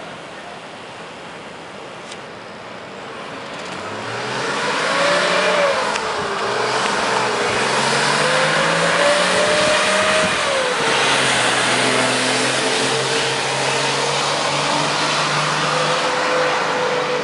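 Ford F-100's 4.2-litre six-cylinder turbo diesel engine running, faint at first and then growing louder about four seconds in as it accelerates. Its pitch rises and drops twice, then holds steady.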